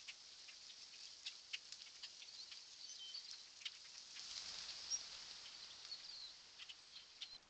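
Faint outdoor ambience on a trail camera's microphone: scattered light ticks and patter with a few brief high chirps, and a swell of soft rustling noise about four to six seconds in.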